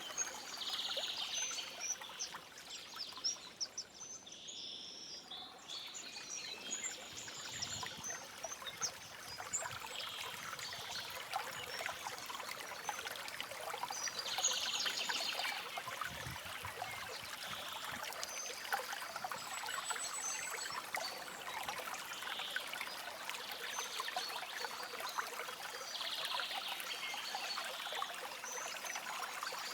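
Small forest stream flowing and trickling steadily over stones, with birds chirping and calling now and then above the water.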